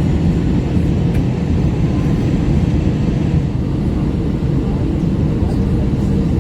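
Steady cabin noise inside an Airbus A321 airliner on final approach: a low rumble of engines and airflow, with a faint steady hum above it.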